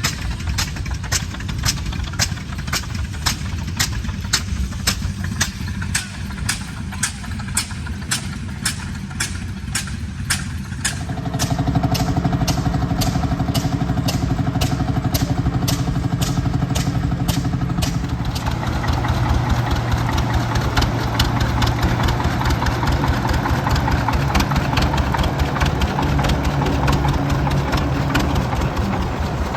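Antique tractor engines running. A slow, steady exhaust beat comes about twice a second, and about eleven seconds in a louder engine with a steady drone joins it.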